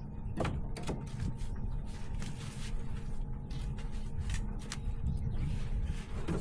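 Split firewood logs being handled and stacked, with a scatter of short wooden knocks as pieces are set against one another, over a steady low hum.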